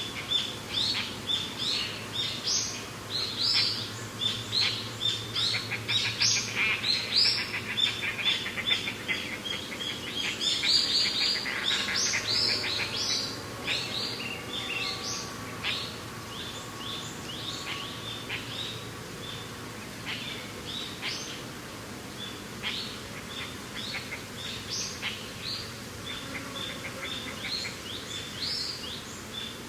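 Many small birds chirping and calling at once in a dense, overlapping chorus, busiest in the first half and thinning out later, over a steady low rush of wind.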